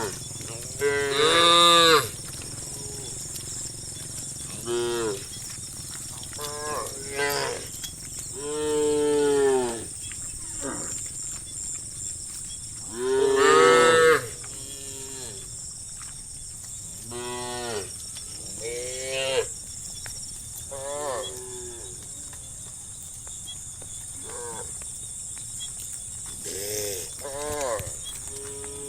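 Animals calling over and over, about fifteen drawn-out pitched calls of varying loudness, the loudest about a second in and again near the middle, over a steady high hiss.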